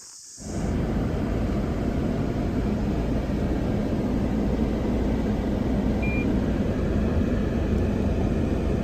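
Steady rumbling road and engine noise of a vehicle driving, starting suddenly about half a second in.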